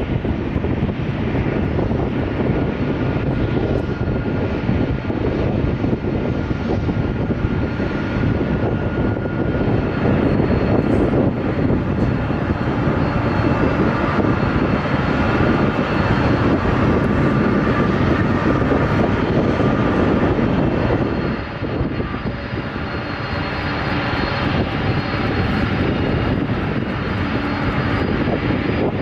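Jet airliner engines running, a steady loud rush with a faint high whine above it. The sound dips briefly about two-thirds of the way through, then resumes.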